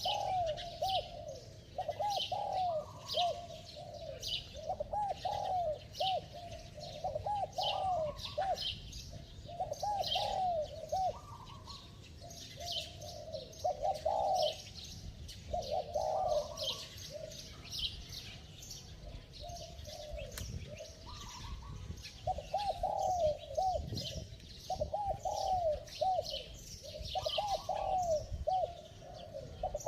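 Spotted dove cooing in quick clusters of short arched coos, the fast bow-coo of a male, pausing for a few seconds past the middle. Small birds chirp rapidly and continuously in the background.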